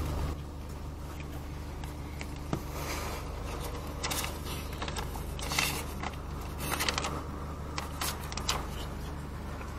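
Steady low hum of an idling car engine, with scattered rustling and handling noises as a paper certificate is unfolded.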